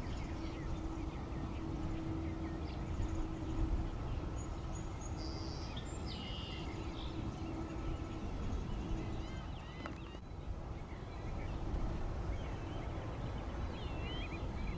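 Small birds chirping repeatedly over a steady low outdoor rumble, with a faint steady hum that fades in and out.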